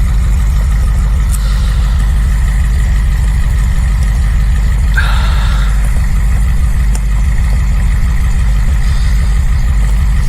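Steady low rumble of an SUV's engine running, with a brief high squeak about five seconds in.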